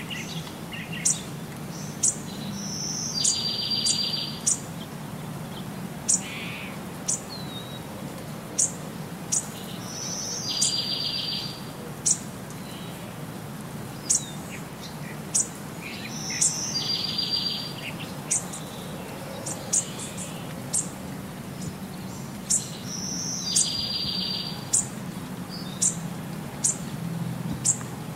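Birds chirping: short high chirps about once a second, with a longer buzzy trill that comes back every six to seven seconds, over a steady low hum.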